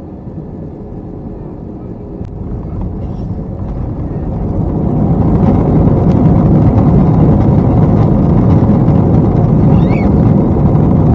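Airbus A321 cabin noise that swells to a loud, steady roar about two to five seconds in and holds there, typical of the engines spooling up into reverse thrust on the landing rollout.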